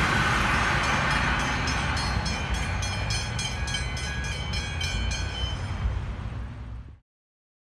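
A V/Line VLocity diesel railcar train running away down the track, its rumble and rail noise slowly fading, with a run of quick light ticks partway through. The sound cuts off abruptly about seven seconds in.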